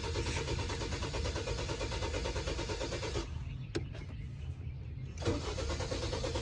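Car starter cranking the engine in a fast rhythmic churn without it catching, then stopping. After a pause with a single click, it cranks again near the end: a hard-starting engine that won't fire.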